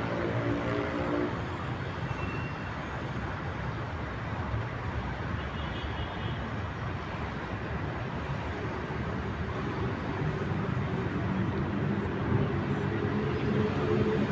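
Street traffic in a city centre: a vehicle engine fades away in the first second or so, leaving a steady traffic hum, and another engine grows louder near the end.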